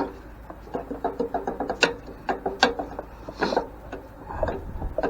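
Screwdriver working at a stripped screw: a run of uneven metallic clicks and short scrapes as the tool turns and catches in the damaged head.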